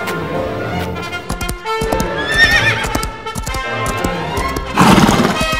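A horse whinnying: a wavering call a little before halfway through and a louder neigh starting near the end, with hooves clip-clopping, over background music.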